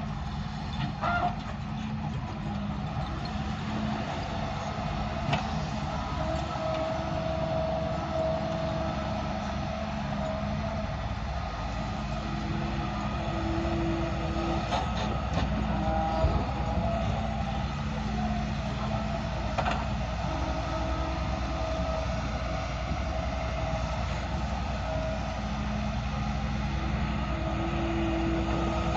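Heavy diesel machinery running steadily, its engine note rising and easing a little at times, with a few short sharp knocks.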